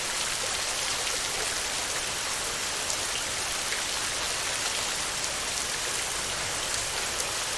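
Heavy rain falling steadily on a metal roof: a dense, even hiss with scattered sharp drop ticks.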